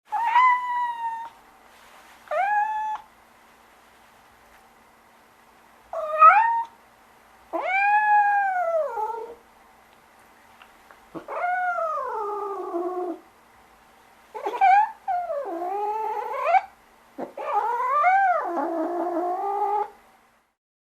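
A domestic cat meowing about seven times, each call rising then falling in pitch, the later ones long and drawn out.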